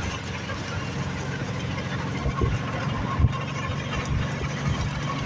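An engine running steadily with a low hum, over a noisy rushing background, with a few short knocks, the loudest a little over three seconds in.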